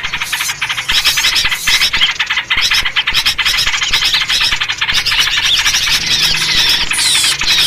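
A dense, unbroken chorus of small birds chattering and chirping rapidly, including the calls of the yellow-vented bulbul (trucuk): a noisy, agitated bird chorus of the kind played to lure birds.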